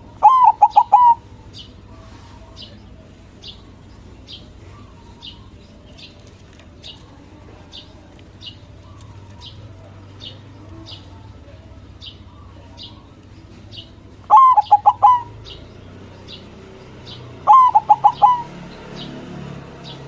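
White zebra dove (perkutut) cooing in three loud phrases of quick stuttering notes: near the start, about fourteen seconds in and about seventeen seconds in. A faint high chirp repeats about once a second throughout.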